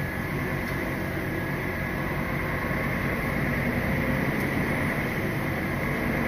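Articulated lorry's diesel engine and road noise heard from inside the cab while driving, a steady drone that grows slightly louder.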